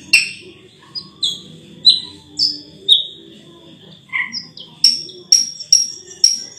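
Raja perling singing: a run of short, sharp whistled notes and clicks, about two a second, some dropping in pitch, over a thin steady high note.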